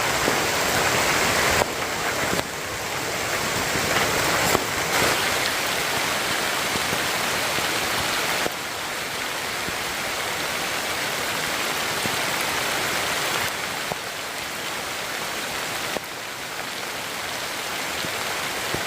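Steady rain falling: a dense, even hiss. The level steps up or down abruptly several times.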